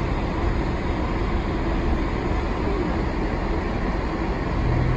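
Steady road noise of a car in motion, heard inside the cabin: a low engine and tyre rumble under an even hiss.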